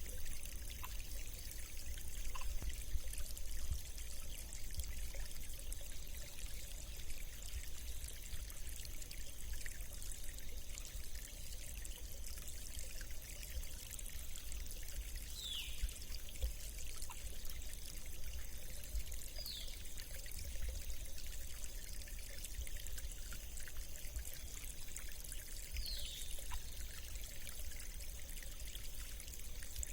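Small monsoon-fed stream flowing and trickling, a steady bubbling rush of water.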